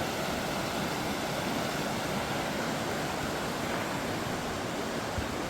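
Mountain stream rushing over small waterfalls, a steady even roar of water.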